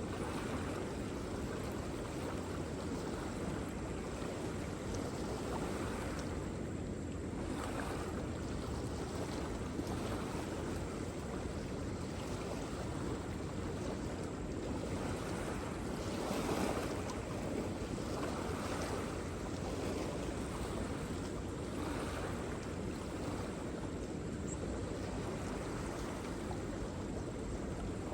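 Waterfall rushing as a steady wash of falling water, swelling slightly about halfway through.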